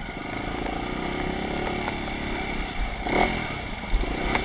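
Off-road motorcycle engine running steadily on the trail, with a brief knock about three seconds in.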